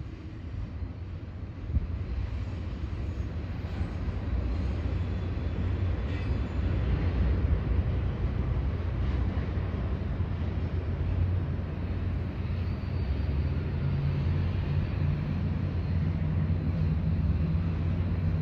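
Intermodal freight train passing with a steady low rumble, a low droning tone joining in for the last few seconds.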